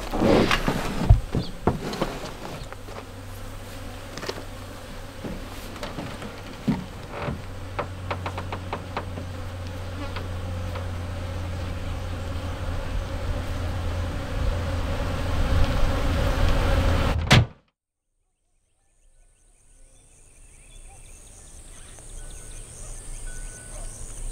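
Honeybees buzzing in a steady hum that swells louder, then cuts off suddenly about two-thirds of the way through, with a few knocks in the first second or so. After the cut a faint, high, steady insect chirring fades in.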